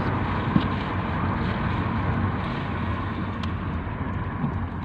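A car driving, heard from inside the cabin: steady engine and road noise that gets a little quieter near the end.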